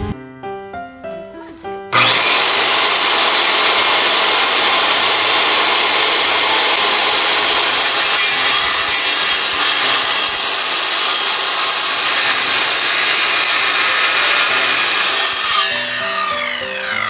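Power saw cutting timber: after a couple of seconds of background music it starts suddenly with a thin high whine and runs as a loud, steady cut for about fourteen seconds, fading back to music near the end.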